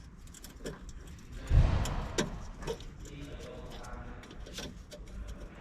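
Light metallic clicks and taps of a hand tool and brake parts being handled while an old brake line is undone from a car's front brake, with a dull thump about one and a half seconds in.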